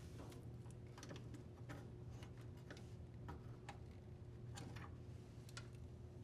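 Faint, irregular small clicks of pliers and plastic wire-harness connectors being squeezed and unclipped, over a low steady hum.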